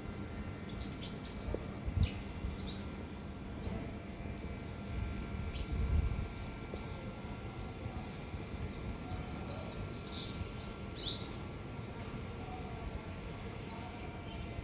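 Small birds chirping in short separate calls, with a quick run of about eight repeated notes around the middle and a couple of louder downward-sliding calls.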